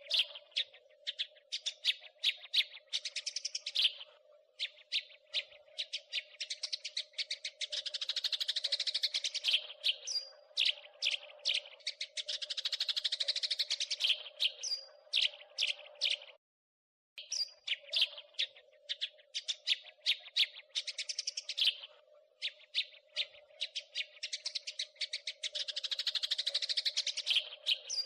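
House sparrow chattering: fast runs of sharp chirps in repeated bouts, over a steady low hum, with a brief break in the sound a little past the middle.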